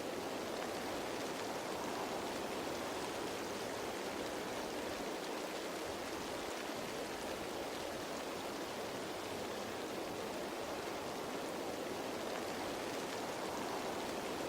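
Steady rain falling on leaves, an even hiss of drops with no single drops standing out.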